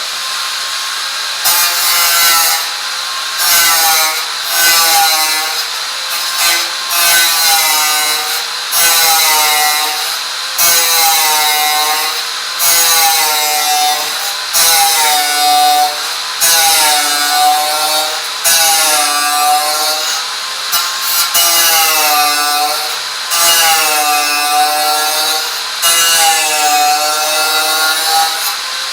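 Steady back-and-forth hand-tool strokes, like sawing or scraping, about one stroke a second. Each stroke carries a ringing tone that bends in pitch.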